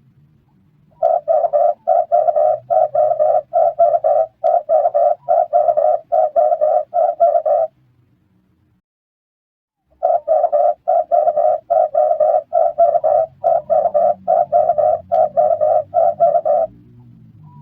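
Red turtle dove calling: rapid, evenly repeated cooing notes, about three a second, in two bouts of roughly six seconds each with a short silent pause between.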